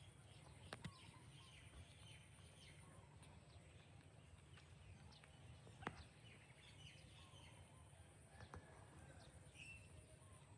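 Faint, high, short chirping calls, many of them falling in pitch, over a low steady hum and a thin high whine. A couple of sharp clicks, the loudest about six seconds in.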